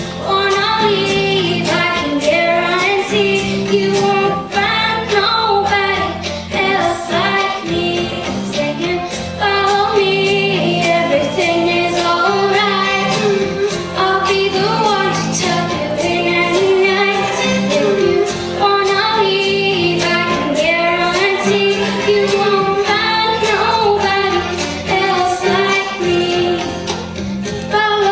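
A child singing a pop song over a backing track, with the melody moving up and down over a steady accompaniment.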